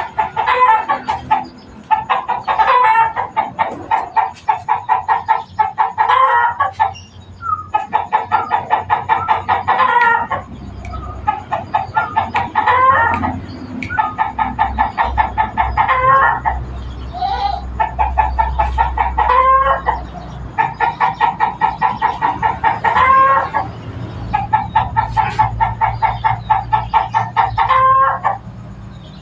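Zebra doves (perkutut) cooing: loud phrases of rapid, pulsed notes, each a few seconds long, separated by short gaps and often ending in a rising-and-falling coo.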